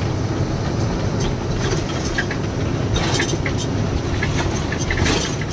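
Truck on the move, heard from inside the cab: a steady low engine and road drone with scattered rattles and clicks.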